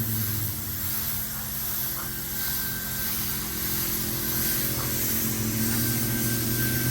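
Compressed-air paint spray gun hissing steadily over the even hum of a running machine, as a car is spray-painted.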